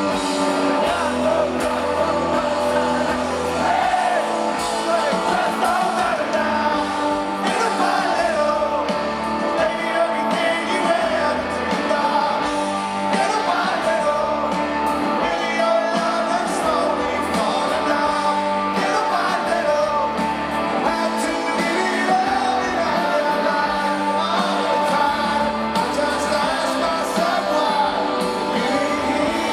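Live rock band playing a song, with singing over the instruments.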